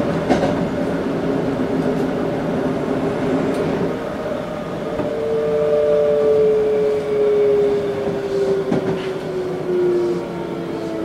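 Toei 5300 series train heard from inside the car: dense wheel-and-rail running noise, then from about five seconds in the distinctive motor whine, two tones that fall slowly in pitch as the train slows.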